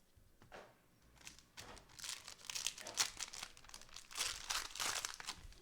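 Plastic trading-card pack wrappers crinkling and tearing as packs are ripped open. There are two spells of crackling, about two and four seconds in.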